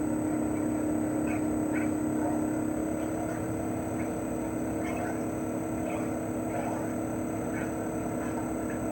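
CHOFU AE-2844PX mini-split air conditioner outdoor unit running in cooling mode: its GMCC single-rotary inverter compressor gives a steady hum under the rush of the propeller fan. The hum and overall level ease slightly about three seconds in.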